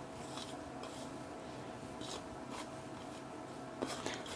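Dry flour and salt being stirred in a bowl: soft scraping strokes about twice a second, with a sharper click near the end.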